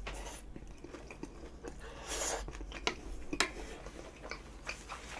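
A person chewing a mouthful of curry-soaked fried food: soft, wet mouth sounds with scattered small clicks.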